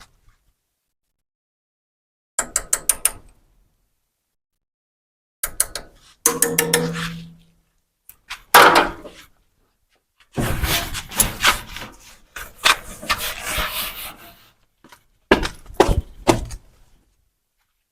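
A series of short bursts of knocking and banging, each cut off by dead silence, with a brief low hum in one of them.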